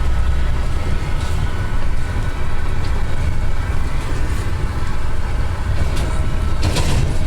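Steady rumble of a vehicle driving on a road, engine and road noise. A short noisy rush comes near the end.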